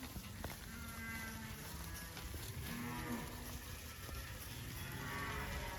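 A herd of beef cattle mooing, several long calls overlapping one another.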